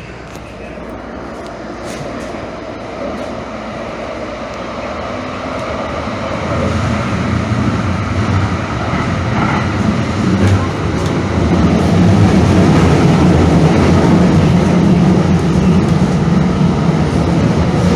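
Calgary CTrain light-rail train running, its rumble growing steadily louder for about twelve seconds and then holding steady.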